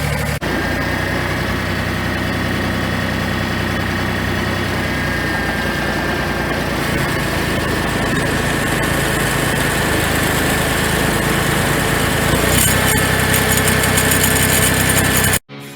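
John Deere 855 compact tractor's three-cylinder diesel engine running steadily, with a thin steady whine above the engine note. The sound breaks briefly about half a second in, shifts a little near the end, and cuts off suddenly.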